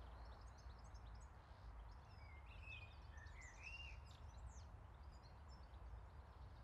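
Faint birdsong: small birds chirping and whistling, with a few short curved whistles in the middle, over a low steady rumble.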